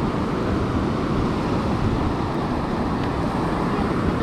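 Steady wind rumble on the microphone over breaking ocean surf.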